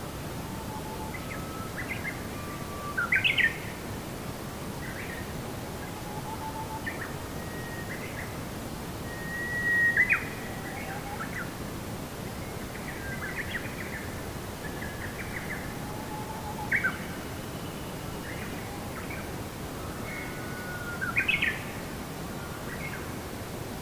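Birds chirping and whistling over a steady rushing background noise, with a few louder calls about three, ten, seventeen and twenty-one seconds in.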